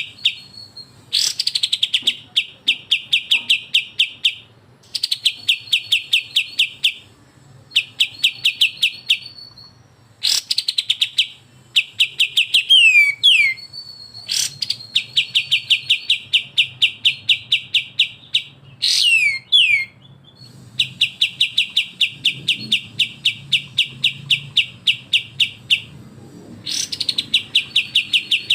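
Songbird singing rapid rattling trills, the fast-fire 'besetan' style of song, in bursts of a few seconds at about eight sharp notes a second with short pauses between. Twice, about halfway through and again later, a pair of quick downward-sweeping whistles.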